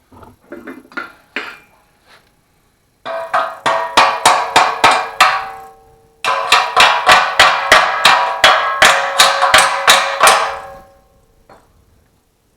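Hammer striking welded steel tubing, a few light knocks and then two runs of quick, evenly spaced blows, about three a second, each one ringing.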